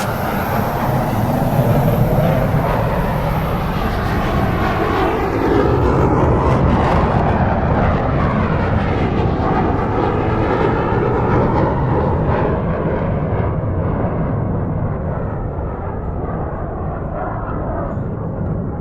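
Aircraft engine noise as a plane flies past. A steady rushing drone with slowly sweeping tone changes, growing duller in the second half as the aircraft moves away.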